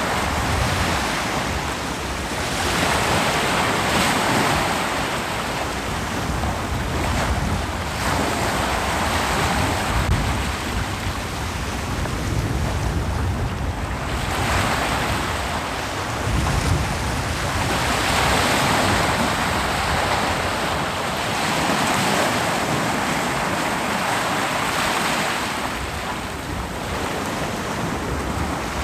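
Ocean surf breaking on a beach: a continuous wash of waves that swells and ebbs every few seconds over a low rumble, with some wind on the microphone.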